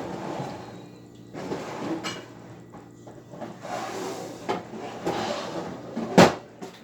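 Items being handled and moved about inside a refrigerator: rustling, scraping and light knocks of containers, shelves and drawers, with one sharp knock about six seconds in.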